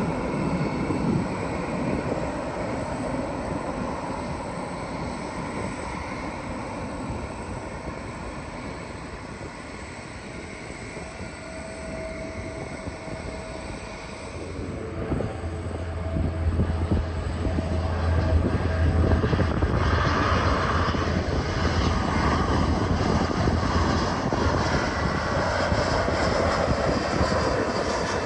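Jet airliner engines passing overhead on approach. One roar fades away over the first ten seconds, then another plane's roar with a deep rumble builds from about halfway through and stays loud.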